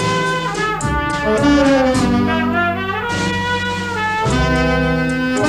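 Instrumental passage of an old recorded song: a brass section of trumpets and trombones plays held chords over a band accompaniment, with the chords changing every second or so.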